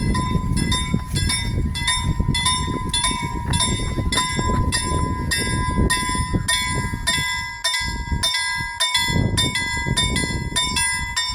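Level-crossing warning bell ringing with quick, even strokes, about two to three a second, over the low rumble of a passing freight train.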